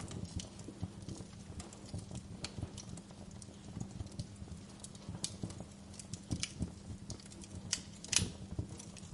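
Wood fire crackling in a fireplace: irregular sharp pops and snaps over a steady low rumble of burning, with one louder pop about eight seconds in.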